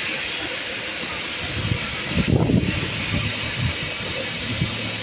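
Steady loud hissing, with a short burst of low rumbling and thumps about two seconds in.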